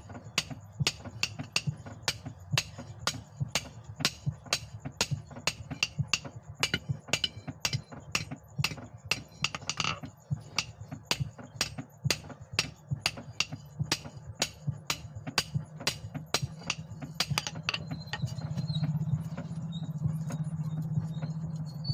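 Hammer blows on leaf-spring steel against an anvil in a steady rhythm, about two to three strikes a second, with a brief ringing tone about ten seconds in. A low steady hum runs underneath and grows louder near the end.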